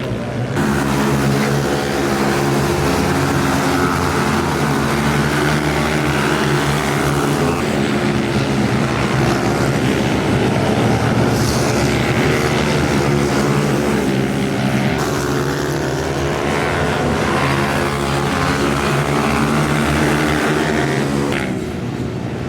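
Supermoto pit bike engine running hard at race pace, its pitch shifting up and down as it revs and backs off through the corners.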